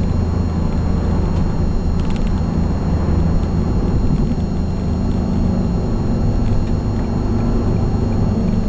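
Nissan 370Z's 3.7-litre V6 running steadily through a Stillen aftermarket exhaust with Berk high-flow catalytic converters, a deep, steady drone heard from inside the cabin.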